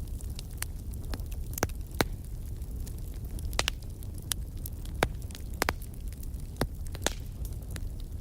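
Burning firewood crackling and popping, with a steady low rumble of the fire underneath and sharp pops scattered through.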